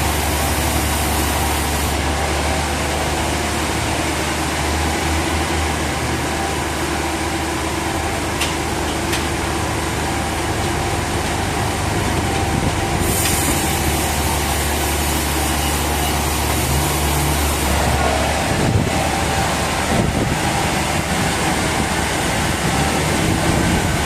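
Sawmill machinery engine running steadily with a deep, even hum; the sound turns rougher about eighteen seconds in.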